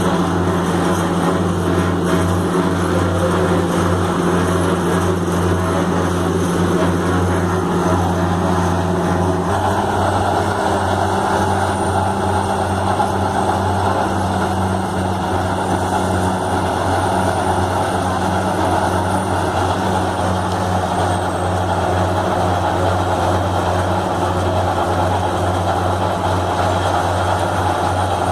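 Heavy road-construction machinery running steadily with a loud, constant engine drone; its note shifts slightly about a third of the way in, and a faint high whine sits over it for a while in the middle.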